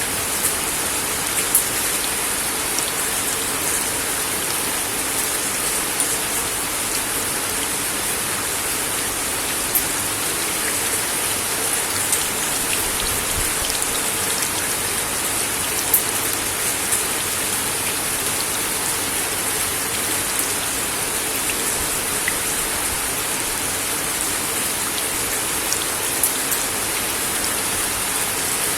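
Steady rain falling on a wooden deck: a continuous hiss with scattered sharper drop impacts standing out here and there.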